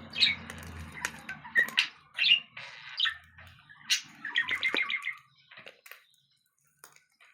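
Pet bird chirping in short high calls, with a quick run of repeated notes about four and a half seconds in.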